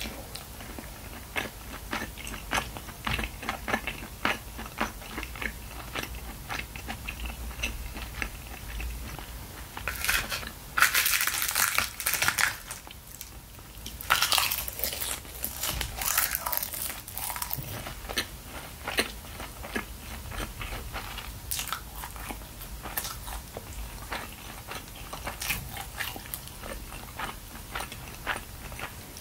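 Close-miked eating sounds: small wet clicks of chewing braised chicken and kimchi, with louder crisp crunching about a third and a half of the way through as a seaweed-wrapped rice bite is eaten.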